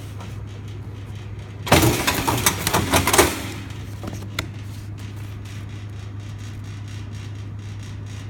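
Yamada Kikai Y60 binding machine humming steadily, then its mechanism clattering loudly for about a second and a half, followed by two light clicks.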